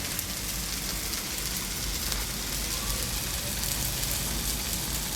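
Rice, chicken and spices sizzling in hot oil in a cooking pot: a steady crackling hiss.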